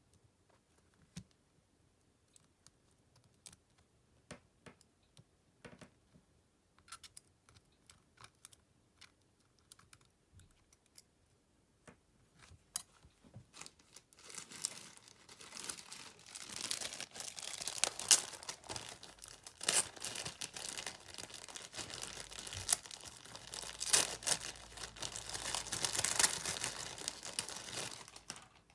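Scattered light clicks and taps of small tools on a Samsung Galaxy M31s phone being taken apart, then, from about halfway, a dense crackling and scraping that runs on for about fourteen seconds and stops just before the end.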